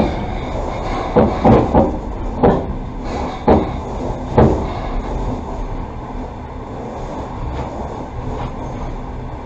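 Passenger train carriage running along the track with a steady low rumble, its wheels clacking sharply over the rails several times, unevenly, in the first half. After that it settles to a smoother rumble.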